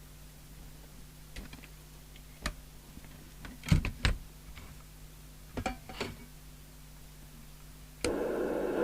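Scattered clicks of switches and knobs being worked on a Midland 2001 CB radio, some in quick pairs, over a faint steady mains hum. About eight seconds in, a steady rushing hiss cuts in and holds: the set's receiver noise from its speaker as it is switched over to radio mode.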